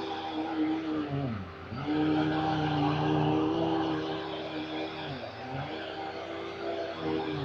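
A 1992 Dirt Devil MVP 12-amp upright vacuum cleaner running, its motor whine steady but sliding sharply down in pitch and back up twice.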